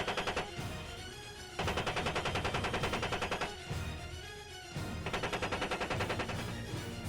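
The Apache's 30 mm M230 chain gun firing rapidly, about ten rounds a second, in bursts of about two seconds. One burst ends about half a second in and two more follow, over background music.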